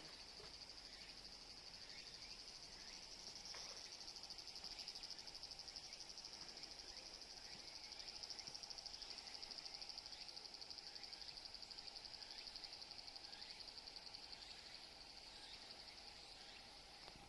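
Faint, steady high-pitched insect trilling, with short falling chirps repeating faintly beneath it.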